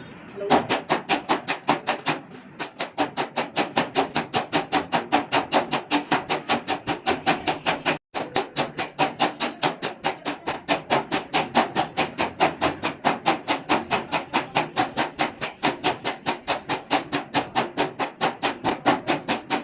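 Hand hammer beating the sheet metal of a damaged car door, a fast steady run of ringing metal strikes at about five a second, with a short pause about two seconds in.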